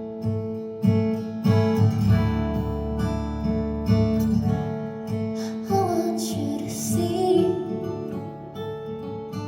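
Live music: an acoustic guitar strummed over a low held bass note, with a singing voice coming in over the guitar about six seconds in.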